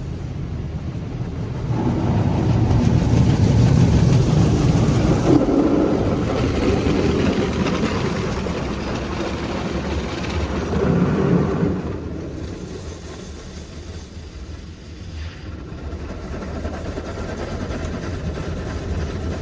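High-pressure water jets of a Petit AquaTrac 360 touchless car wash spraying over the car, heard from inside the cabin as a strong rush of spray. It swells about two seconds in and eases off to a lighter spray around twelve seconds in.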